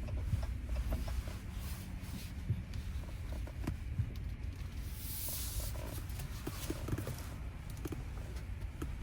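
Low, steady rumble of a Dodge Ram pickup running, heard from inside the cab, with scattered light clicks and a short hiss about five seconds in.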